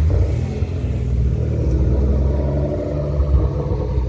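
A car engine running close by: a steady low rumble with a pitched hum.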